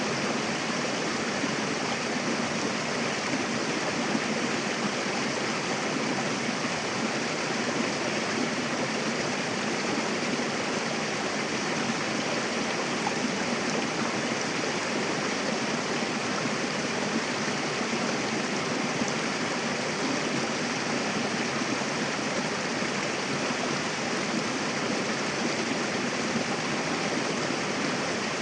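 Mountain river flowing and rushing over rocks: a steady, even rush of water with no breaks.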